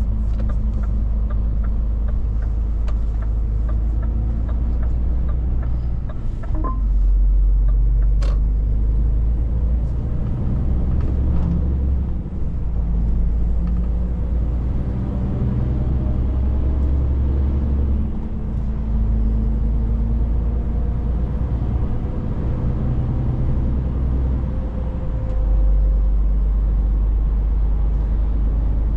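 Scania 500S truck driving: a deep, steady engine and road drone that shifts in steps four times, roughly every six seconds. There is one sharp click about eight seconds in.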